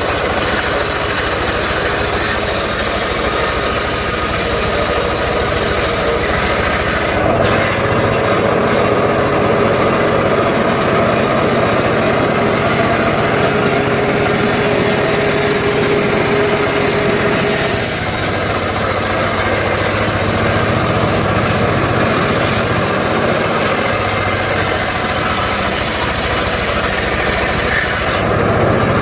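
Engine-driven wood saw running steadily. Its tone changes at about 7 seconds in and again at about 18 seconds in, as a high hiss drops away and then returns.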